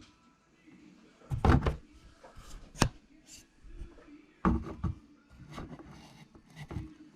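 Hard parts of a Traxxas E-Revo 2.0 RC truck clicking and knocking as they are handled and fitted, with a couple of short clusters of knocks and one sharp click between them.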